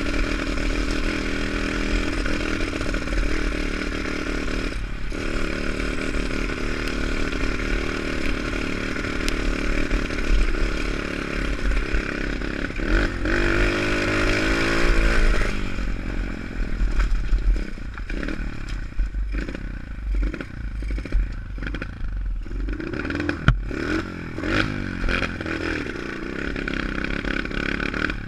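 Pit bike engine under riding load, the throttle opened into a long rising rev about halfway through, then worked on and off in short blips with some clattering knocks.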